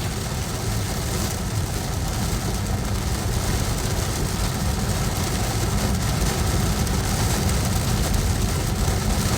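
Steady road and engine rumble inside a car driving on wet roads in heavy rain, with an even hiss of rain and tyre spray over it.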